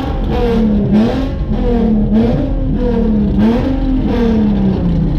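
Car engine being revved repeatedly, its pitch rising and falling about once a second, then settling lower near the end.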